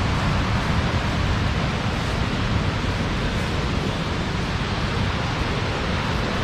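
Rushing water of a waterfall: a steady, even noise with no breaks.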